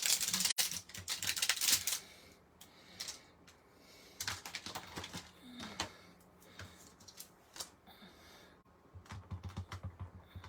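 A stamp tapped rapidly against an ink pad to ink it, a quick run of light clicks and taps, followed by scattered single taps of the stamp and supplies being handled on the desk and another short flurry of taps near the end.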